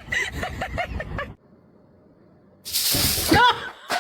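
A string of short, rapid voice sounds that cut off suddenly, then, after a short quiet gap, a cat's loud hiss with a rising yowl about three seconds in: a cat reacting defensively to being poked.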